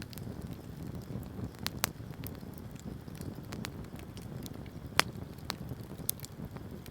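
Wood bonfire burning: a steady low rumble of flame with scattered sharp crackles and pops, the loudest about five seconds in.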